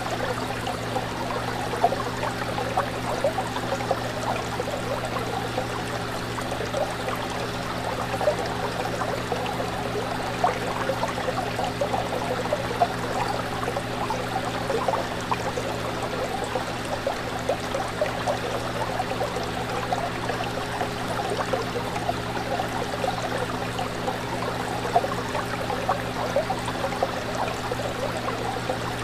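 Fish tank water bubbling and trickling continuously, with scattered small pops, over a steady low electrical hum from the aquarium's pump or filter.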